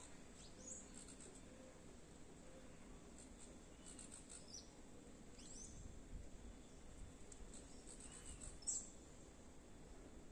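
Quiet outdoor ambience with faint, scattered high-pitched bird chirps and short sweeping calls, the clearest one just before the end.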